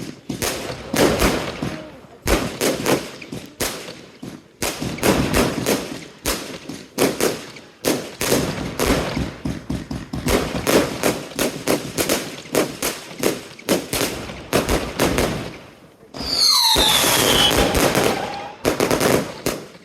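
Consumer F2 firework batteries firing rapid volleys of sharp shots and bursts, with short pauses between volleys. About 16 s in there is a dense rush of noise lasting about two seconds with falling whistles, followed by a last few shots.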